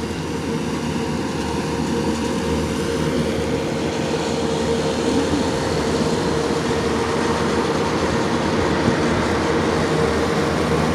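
Lawn mower engine running steadily, a continuous drone with a held hum that grows slightly louder over the few seconds.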